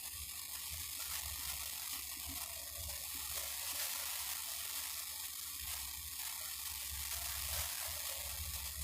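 Steady background hiss over a low hum, with no distinct events.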